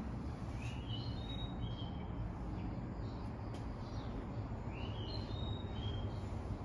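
A bird singing the same short phrase twice, about four seconds apart: a rising note followed by a few level, higher notes. Underneath runs a steady low rumble.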